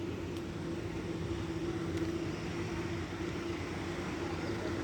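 Vehicle engine running steadily, a low, even drone with a constant hum.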